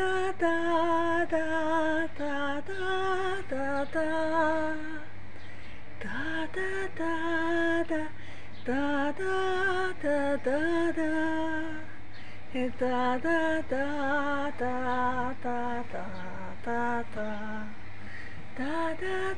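A woman singing a wordless, improvised melody with no accompaniment, holding notes and often sliding up into them, with short breaks between phrases.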